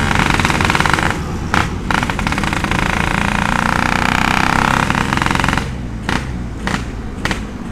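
Yamaha RX-King's 135cc two-stroke single-cylinder engine revving through a 'setengah dewa' aftermarket exhaust, its baffle drilled with extra holes yet still loud. The revs are held for several seconds, then drop back about two-thirds of the way through to an uneven idle with sharp pops.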